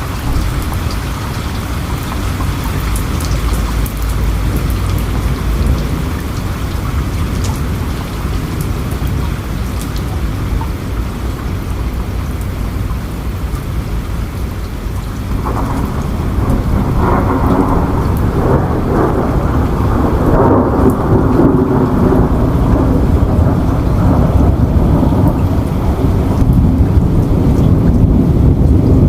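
Steady rain falling, with a low rumble of thunder beneath it. About halfway through, a louder rolling rumble of thunder builds up and keeps going.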